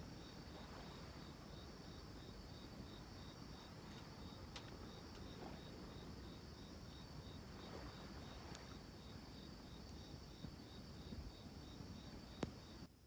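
Faint insects chirping: a high, evenly pulsed trill about three times a second over a steady high hum, with a few soft clicks.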